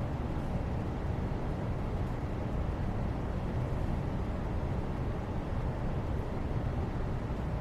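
Steady low rumbling background noise with no distinct events, heaviest in the bass and unchanging in level.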